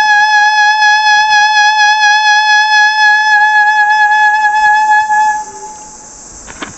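Unaccompanied alto saxophone holding a long final note with a slight waver in pitch, played with a bright, edgy non-classical mouthpiece. The note stops about five seconds in and dies into the room's echo, followed by a soft click near the end.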